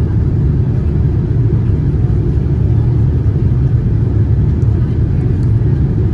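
Steady low rumble inside the cabin of a Boeing 787-9 airliner with GEnx engines: engine and airflow noise, even throughout with no change in pitch.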